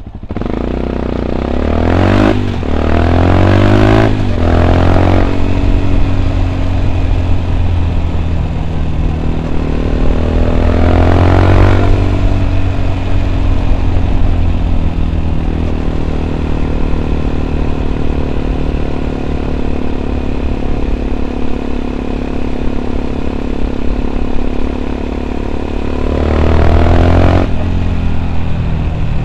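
A 2014 Yamaha WR 125 X's single-cylinder four-stroke engine, breathing through an Arrow aftermarket exhaust with its dB killer fitted, pulls up through the gears in quick rising revs. It then cruises at a steady engine speed, and revs up briefly again near the end.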